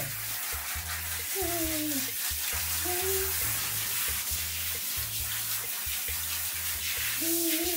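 Water spraying steadily from a handheld shower head onto a beagle's wet coat and the tiled shower floor, a continuous hiss. Background music with a repeating bass line and a few gliding melody notes plays underneath.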